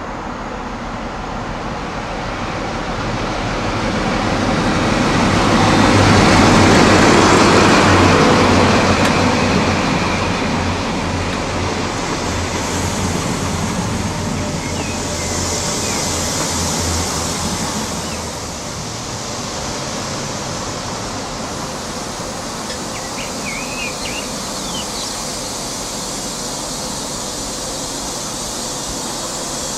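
InterCity 125 High Speed Train passing on diesel power, its engine drone and wheel rumble building to a peak about six to eight seconds in, swelling again around fifteen seconds, then settling into a steady rumble. A few faint bird chirps near the end.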